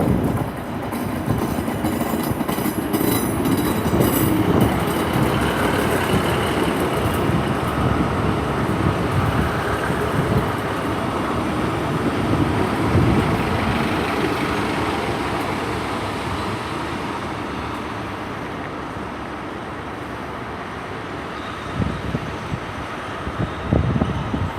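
Diesel multiple unit running into the platform on arrival, engine and wheels on the rails with a faint high wheel squeal early on, the sound dying away gradually as the train slows to a stand.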